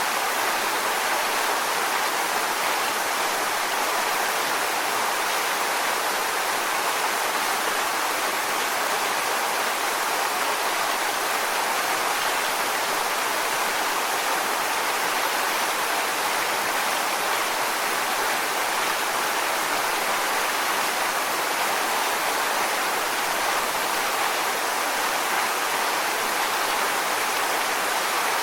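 Waterfall: a steady, even rush of falling water with no breaks or individual splashes.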